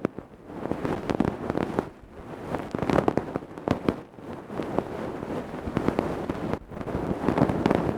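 Ear-cleaning ASMR: tools scraping and rubbing inside a microphone's ear, a close, dense crackling that swells and fades in repeated strokes about every second or two.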